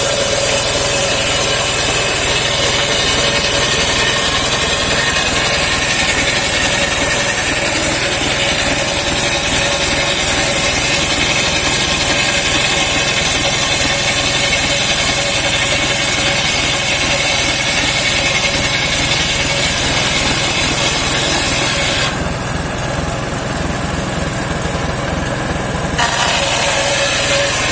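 Engine-driven homemade circular sawmill sawing saman (rain tree) wood: the engine runs steadily while the blade cuts with a loud high whine. About 22 seconds in the high cutting noise drops out for about four seconds and then returns, while the engine keeps running.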